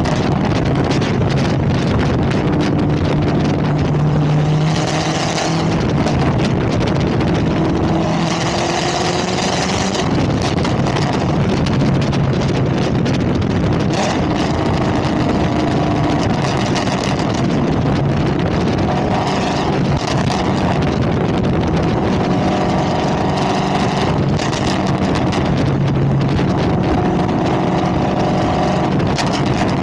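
Straight-piped Chevrolet Camaro ZL1 supercharged 6.2-litre V8 running loud under way on long-tube headers, its exhaust note rising and falling in pitch several times as the revs change.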